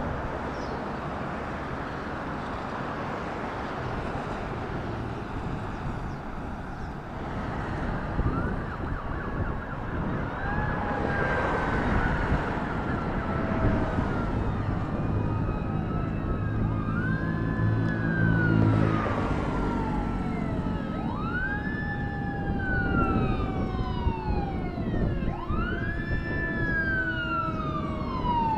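Traffic noise, then a fire apparatus siren coming in from about eight seconds in and growing louder. It wails in repeated rising-and-falling sweeps about every four seconds.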